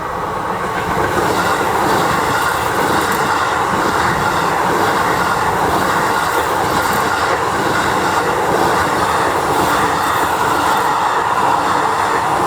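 Keikyu Line electric train running past at speed, the wheels clattering over the rail joints. The sound swells about a second in and stays loud and steady.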